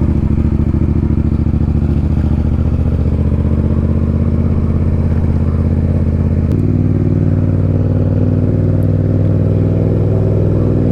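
Motorcycle engine running steadily while riding, with the engine note shifting a little past halfway through.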